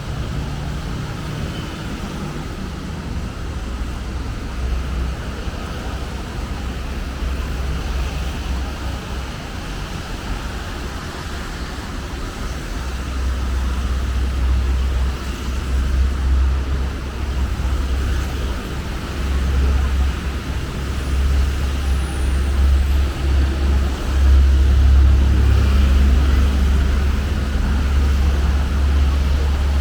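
Road traffic passing below: a steady rush of vehicles with a deep rumble that grows louder from about halfway through.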